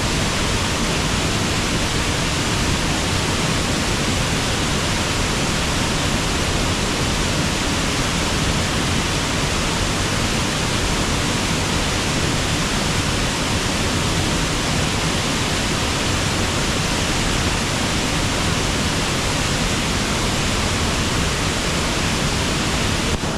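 Waterfall rushing steadily: a loud, even wash of falling water that does not change.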